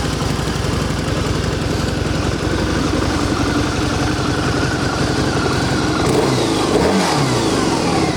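2013 Harley-Davidson Night Rod Special's 1250cc liquid-cooled V-twin idling through its factory exhaust, which runs pretty quiet. About six seconds in, the engine speed briefly rises and falls again.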